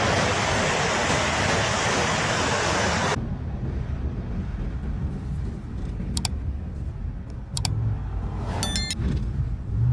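Loud, steady rush of water noise, cutting off abruptly about three seconds in. It gives way to a low rumbling background with two sharp clicks and a brief high-pitched beep near the end.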